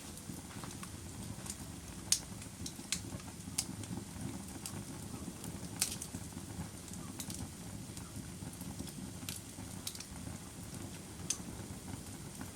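A fire crackling: a steady low rumble with sharp pops at irregular intervals, the loudest about two seconds in and again near six seconds.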